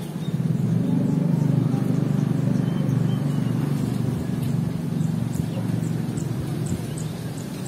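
Low steady rumble of a motor vehicle, swelling about a second in and slowly fading, with faint short high ticks over it.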